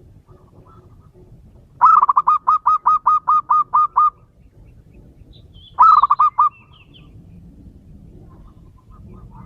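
Male zebra dove calling: a fast run of about ten short cooing notes, then a shorter run of about four notes a couple of seconds later.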